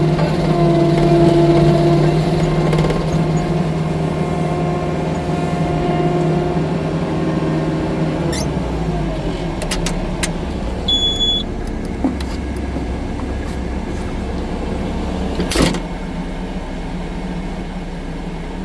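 Tracked skid steer loader's diesel engine running steadily at high revs, then dropping to a lower note about eight seconds in. Scattered clanks and one sharp knock come later.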